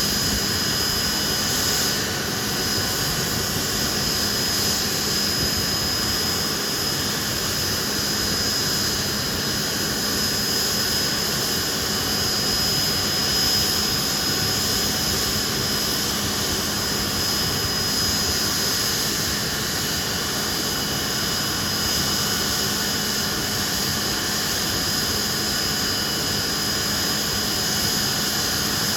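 Nimrod jet engines running steadily at a constant setting: an even roar with a steady high whine, with no spool-up or wind-down.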